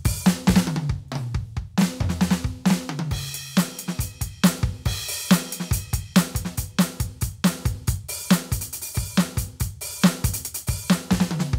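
Roland TD-17KVX electronic drum kit played through its sound module: a steady groove of kick, snare, hi-hat and cymbals, with a tom fill stepping down in pitch about two to three seconds in.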